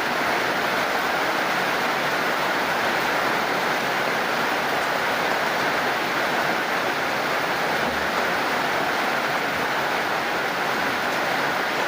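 Steady heavy rain: a constant, even hiss with no single drops, thunder or other events standing out.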